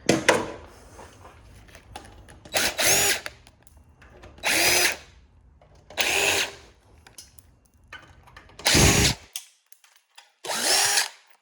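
A power drill/driver with a hex bit running in six short bursts, each spinning up and winding down, as it backs out Allen key screws.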